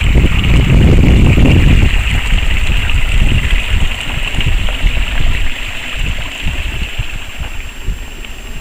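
Strong gusty wind buffeting the microphone, a heavy irregular rumble over a steady hiss, easing off toward the end.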